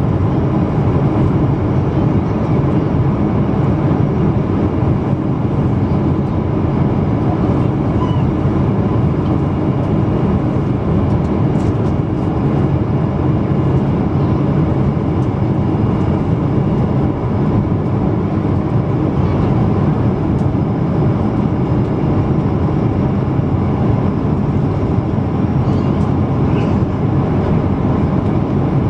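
Steady jet engine and airflow rumble of a Boeing 777-200 heard from inside the passenger cabin, deep and even with a faint steady hum on top.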